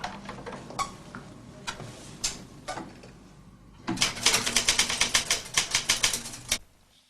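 Typewriter typing: a few scattered key strikes, then a fast, even run of keystrokes from about four seconds in, stopping about two and a half seconds later.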